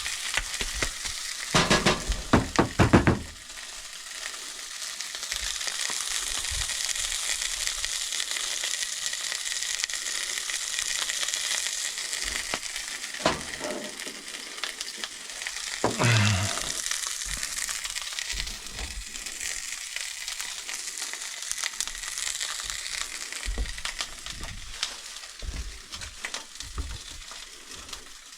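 Steak sizzling in a frying pan, a steady hiss, with a few sharp knocks about two to three seconds in and a short sound sliding down in pitch about halfway through.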